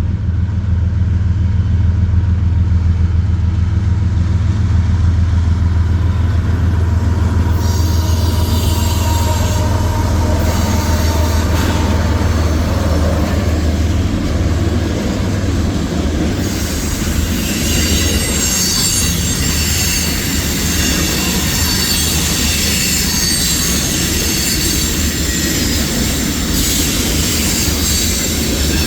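Freight train passing close by: a diesel locomotive's steady low engine drone, then the rolling of the cars with high wheel squeal and some clickety-clack of the wheels over rail joints.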